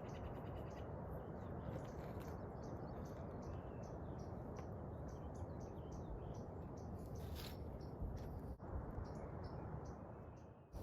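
Many short high-pitched chirps from a small wild animal, repeated irregularly over a steady rushing background noise.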